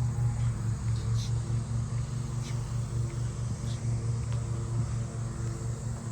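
Petrol lawn mower engine running steadily with a rapid low drone, and a few short high bird chirps over it.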